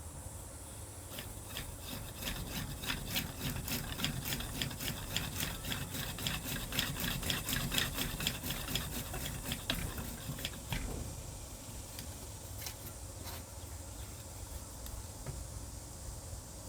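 Homemade hand drill boring a hole through a book board: a fast, rasping run of clicks with a low rumble for about ten seconds, then quieter with a few scattered clicks.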